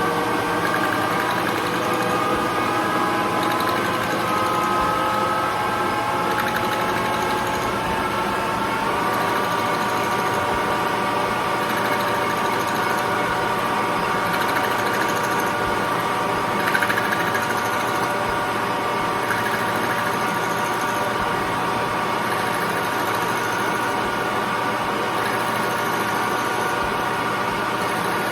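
Metal lathe running while turning a square nylon bar into spacers: a steady machine whine whose pitch shifts in the first seconds and settles into a constant tone about nine seconds in.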